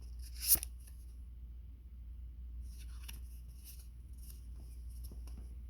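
Light taps and soft rustling of cards being handled on a table, with one sharper tap about half a second in, over a faint steady hum.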